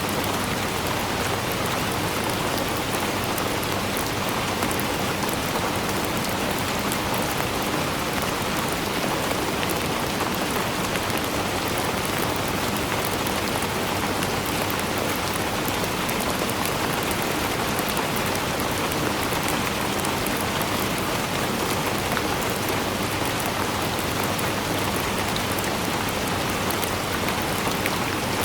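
Steady rainfall, with many fine drop ticks over an even hiss that stays level throughout.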